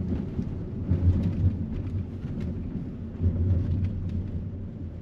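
Volkswagen Passat Variant on the move, its engine and road rumble heard from inside the cabin. The low rumble swells about a second in and again a little past three seconds.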